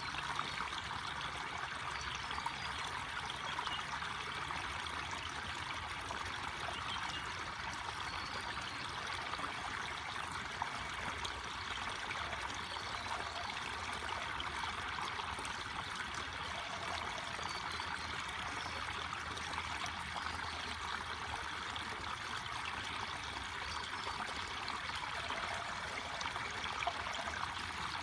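Forest stream flowing over stones, a steady babble and trickle of water.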